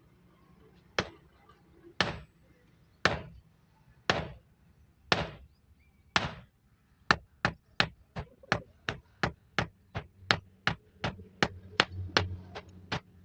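Hammer striking metal, each blow leaving a short high ring. Six strikes come about a second apart, then a faster steady run of about three strikes a second.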